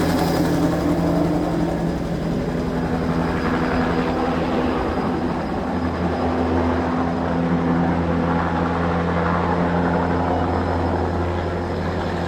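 Fertilizer-spreading helicopter flying low, its rotor and engine making a steady drone whose low hum shifts slightly in pitch.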